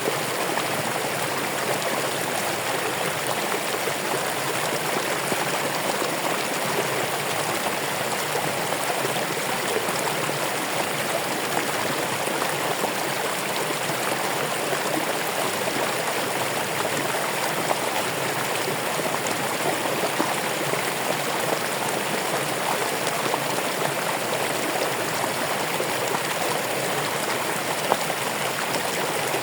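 Running water in a stream, a steady unbroken rush with fine splashing and gurgling throughout.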